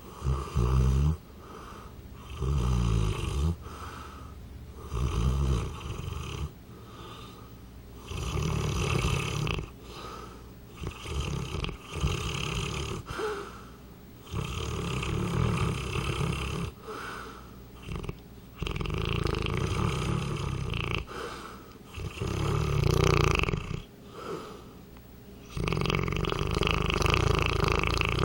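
A 200-pound St. Bernard snoring in its sleep: rough, rumbling snores with breaths every two to three seconds, the last one drawn out longer.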